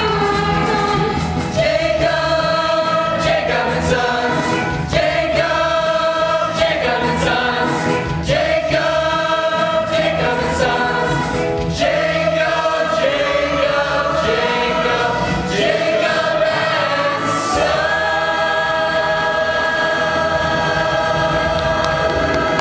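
A choir singing a musical-theatre number with accompaniment, ending on one long held chord over the last few seconds.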